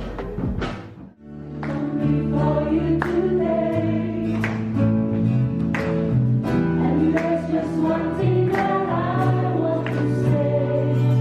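Music: the previous track drops out about a second in, then a choir starts singing sustained chords over instrumental accompaniment with a steady beat.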